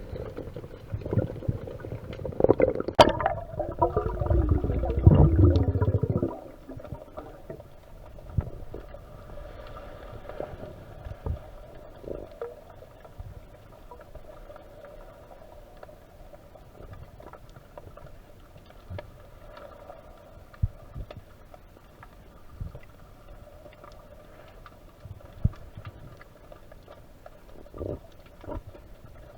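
Underwater water noise on a submerged camera: a loud low churning rumble with bubbling for about the first six seconds, then quieter water murmur broken by scattered sharp clicks and knocks.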